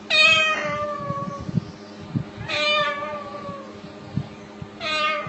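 Parrot imitating a cat's meow: three long meows, each sliding down in pitch, the last one starting just before the end.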